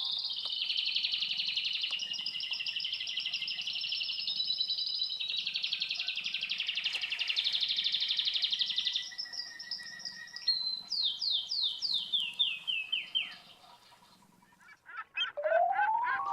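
Domestic canaries singing: long, rapid high trills and rolls, then a run of short falling whistles about ten seconds in, a brief lull, and a rising sweep into new chirps near the end.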